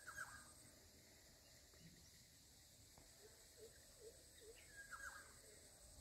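Faint bird calls by a pond: a short call with quick falling notes, heard at the start and again about five seconds in, and between them a run of five soft low notes. A faint steady high hiss runs underneath.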